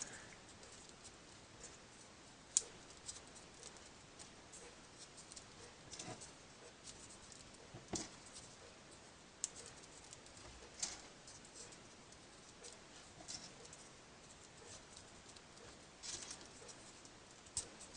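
Folded paper origami pieces being slotted into a modular origami model to fill out a row: scattered soft paper clicks and rustles, a few seconds apart.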